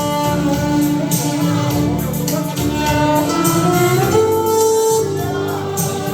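Violin playing a slow melody of long held notes, sliding up to a higher note about four seconds in, over a backing accompaniment.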